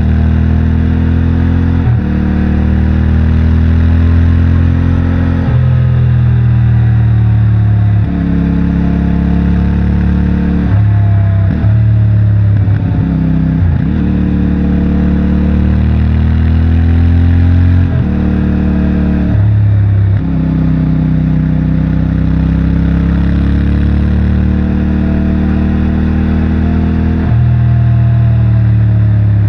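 CFMOTO 450MT's parallel-twin engine and stock exhaust under way, the engine speed rising and falling with several abrupt pitch jumps as the rider shifts gears.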